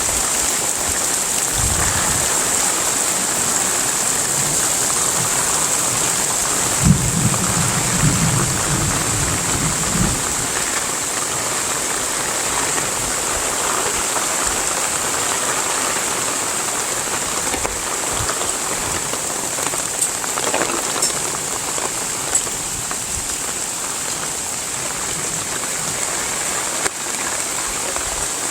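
Heavy rain falling steadily, with a low rumble a few seconds in.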